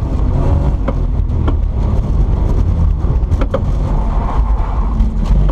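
Car engine running low and steady with a loud rumble, a few sharp clicks and knocks scattered through it.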